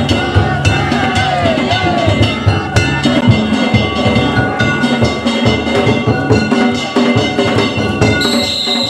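Danjiri float music: taiko drums beaten fast with clanging, ringing hand gongs (kane), dense and unbroken.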